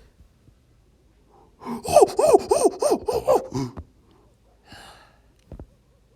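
A person's voice making a quick run of pitched, rhythmic gasps for about two seconds, then a soft breathy exhale and a single short knock near the end.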